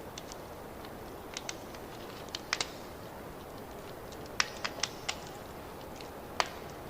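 Wood fire crackling: a steady soft hiss under irregular sharp pops, with a cluster of louder pops a little past the middle and one sharp pop near the end.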